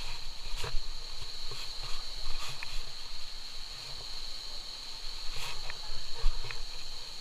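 Steady high-pitched insect drone, like a cricket or cicada chorus, holding one pitch throughout, over low irregular thumps and a few sharp clicks.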